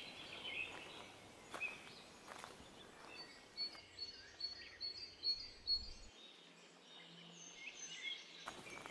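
Faint outdoor garden ambience with birds singing: scattered high chirps, and a quick run of repeated chirps about halfway through.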